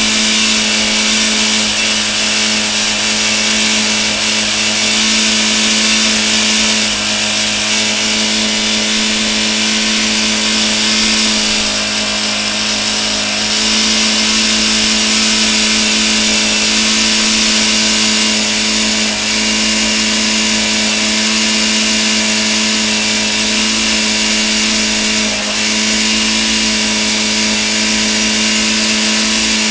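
Skoda car engine running flat out at a steady high pitch with no coolant and barely any oil, being run deliberately to destruction. The note holds steady, with a few brief slight dips.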